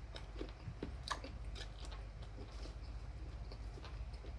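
A person chewing fried chicken with the mouth close to the microphone, with a few small sharp clicks scattered through it.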